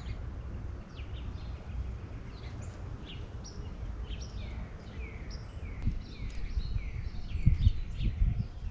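Birds calling, a rapid run of short downslurred chirps repeating throughout, over a low rumble that swells into a few heavier low thumps near the end.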